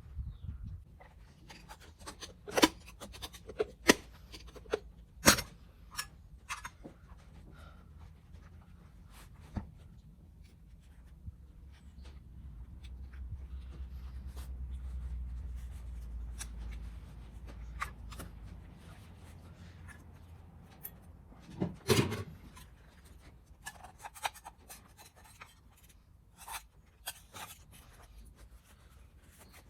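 Scattered clicks, taps and rubbing from small parts and tools being handled on a work surface, the loudest knocks a few seconds in and again about two-thirds of the way through. A low hum swells and fades in the middle.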